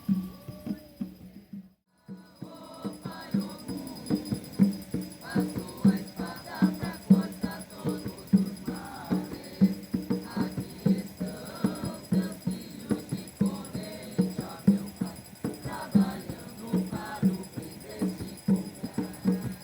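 Group singing of an Umbanda ponto over a steady percussion beat with a shaker or tambourine. The sound drops out briefly about two seconds in, then the singing and beat carry on.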